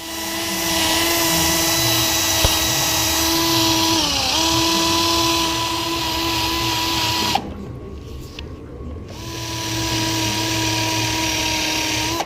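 Small electric drill with a polishing attachment running with a steady whine. Its speed sags briefly about four seconds in, as if pressed against the work, and recovers. It stops about seven seconds in and starts again about two seconds later; this is it polishing metal bicycle parts with Solvol.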